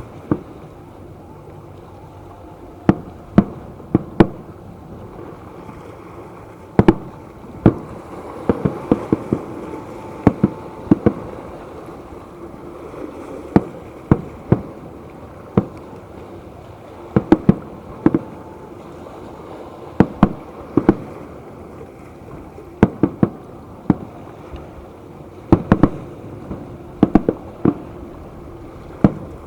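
Aerial fireworks bursting in an irregular string of loud, sharp bangs, some single and some in quick clusters of two to four, over a steady low background noise.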